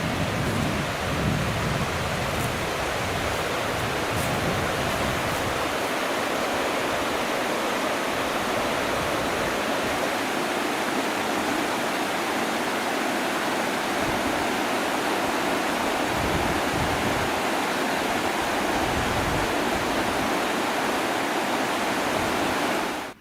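Fast river water rushing steadily over stones, a loud continuous rush that cuts off suddenly at the end.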